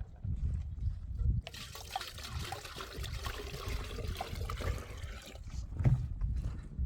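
Water trickling, beginning about a second and a half in, with low thumps before it and near the end.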